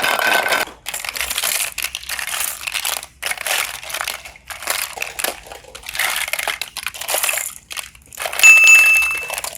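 Slime being squeezed and worked by hand, making irregular crinkling, crackling bursts. Near the end comes a brief steady ringing tone, the loudest sound here.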